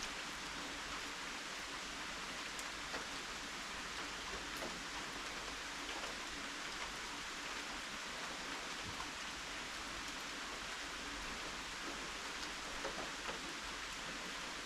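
Steady rain falling, a constant even hiss with scattered faint ticks of drops.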